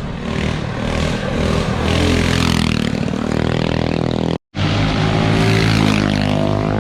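Small minibike engines running, their pitch rising a little partway through. The sound cuts out completely for a moment about two-thirds of the way in.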